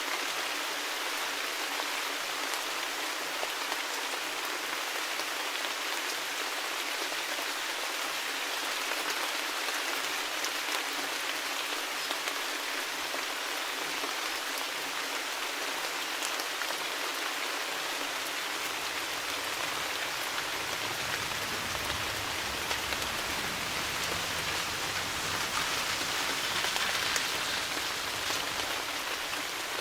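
Steady rain falling, an even hiss with fine patter of drops, with a faint low rumble joining in after about twenty seconds.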